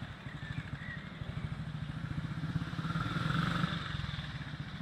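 Motorcycle engine running with an even, rapid beat, swelling briefly about three seconds in.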